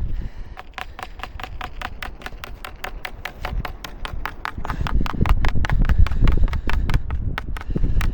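A hard grip-wax block scraped against a cross-country ski base in short quick strokes, about five to six a second, notching the wax on in a cross-hatch without rubbing it in. Wind rumbles on the microphone, louder in the second half.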